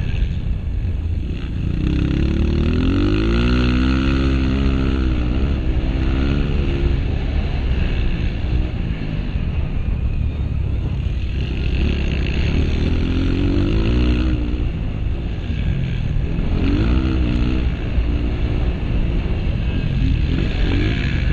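Honda CRF230 dirt bike's single-cylinder four-stroke engine under race throttle, its pitch climbing and dropping again and again as the throttle opens and closes through the gears.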